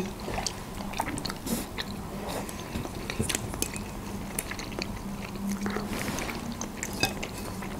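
Close-miked chewing and mouth sounds of people eating a creamy baked chicken, mushroom and cheese julienne, with many short scattered clicks.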